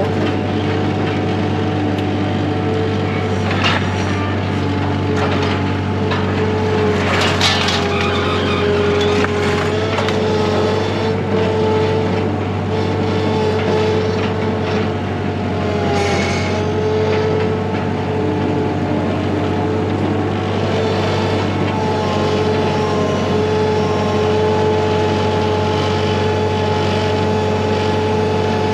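A motor or engine running steadily at one speed, its pitch dipping briefly about halfway through, with a few short knocks over it.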